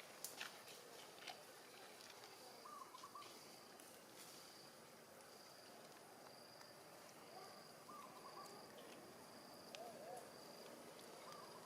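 Faint outdoor ambience: a high insect trill that comes and goes, with short wavering animal calls repeated every few seconds and a few light clicks.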